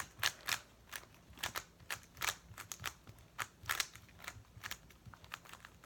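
Plastic 3x3 speedcube being turned by hand: an irregular run of sharp clicks and clacks as the layers snap round, a few each second.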